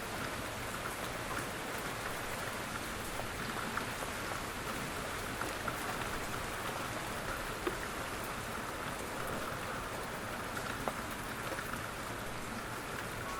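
Steady rain, with scattered drops ticking on a surface.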